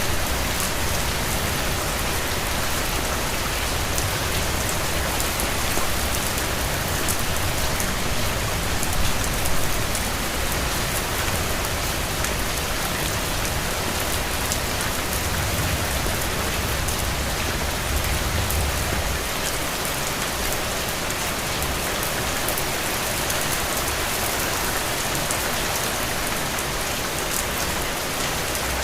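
Steady rain falling on a hard surface, a dense patter of drops. A low rumble underneath fades out about nineteen seconds in.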